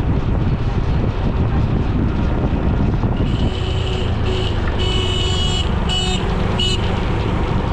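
Steady road and wind rumble from riding along a road. About three seconds in, a vehicle horn honks in five short blasts of uneven length.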